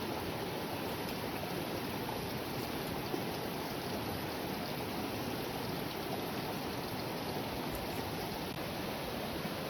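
Heavy rain pouring steadily, an even rushing hiss with no let-up.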